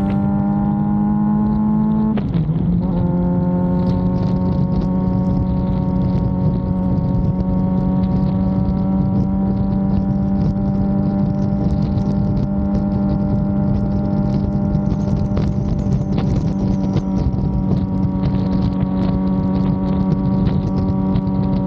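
Suzuki GSX-R750 inline-four engine at a steady cruise, with a quick gear change about two seconds in, then holding an even pitch that creeps slowly upward, over wind rush.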